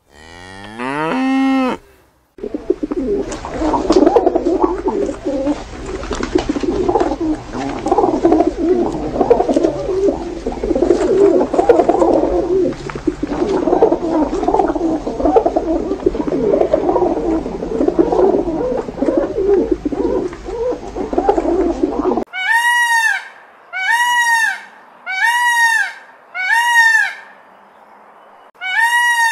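A cow moos once briefly, rising in pitch. Then pigeons coo in a dense, rippling run of low calls for about twenty seconds. In the last seven seconds an Indian peafowl gives a series of short arched, honking calls about one a second.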